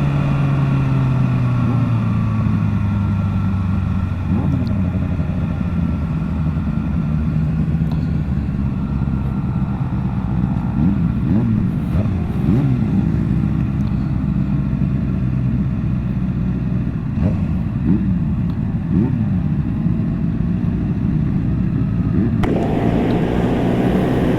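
Motorcycle engines in a slow-moving group: the engine note falls as the bike slows, then engines run low with many short revs from the motorcycles around it. About 22 seconds in, the noise rises suddenly as the bike picks up speed.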